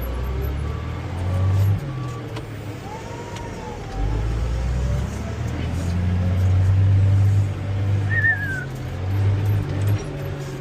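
Heavy machine engine running, heard from inside the cab, its level dropping about two seconds in and rising again a couple of seconds later. A short row of evenly spaced warning beeps sounds over it at the start.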